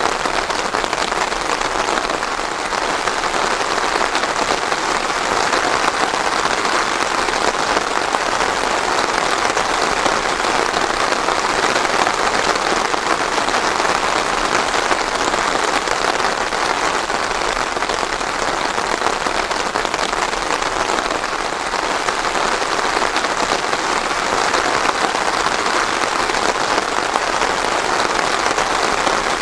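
Steady rain falling and pattering on surfaces, an even dense hiss of drops without thunder.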